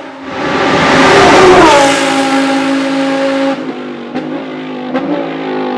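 High-performance car engine at high revs, loud, with its pitch dropping a little before the two-second mark. The engine then lets off suddenly just past halfway, and the revs fall away with a few sharp pops.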